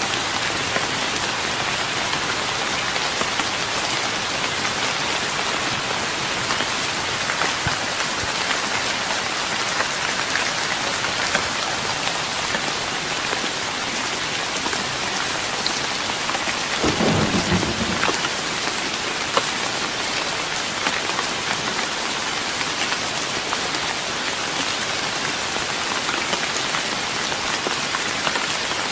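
Steady rain falling on a wooden deck, a dense even patter with fine drop ticks. About two-thirds of the way through, a short low rumble of thunder lasting about a second.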